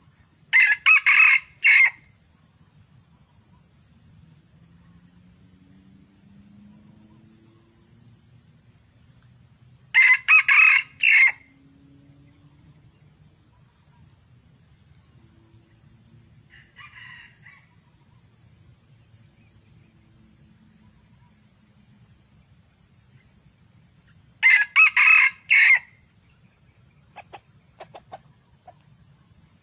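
A junglefowl rooster crows three times, short clipped crows about ten to fourteen seconds apart, with a fainter crow in between. A steady high-pitched insect buzz runs behind.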